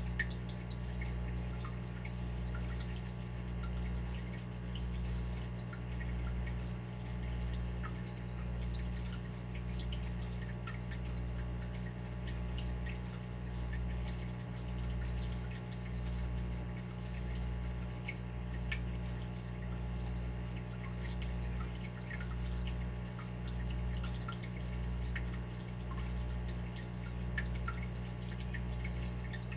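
Water dripping and trickling in small scattered drops, over a steady low hum that swells and fades about once a second.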